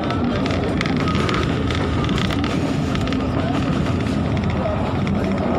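Passenger train running, heard from inside the carriage: a steady rumble of wheels on track with dense rattling clicks and wind noise.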